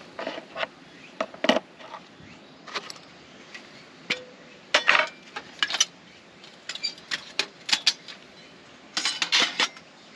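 Small hard objects being handled: a run of irregular clinks, clicks and rattles, with a denser clatter about nine seconds in.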